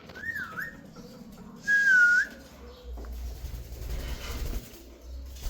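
Green parrot whistling twice: a short wavering whistle, then a louder one that dips and rises again, followed by a low rumble.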